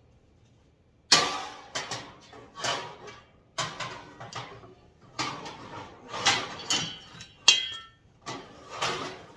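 Metal shelf panel clanking and rattling as it is fitted into the tool rack's frame: a string of sharp knocks, the loudest a little after a second in. One knock rings briefly with a metallic tone about seven and a half seconds in.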